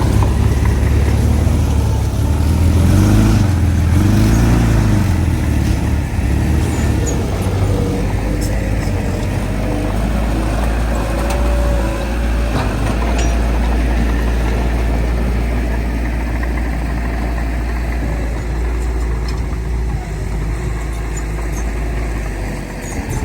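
Heavy diesel engine of earthmoving machinery running loud, its pitch rising and falling a few times in the first five seconds as it works, then settling into a steady low drone.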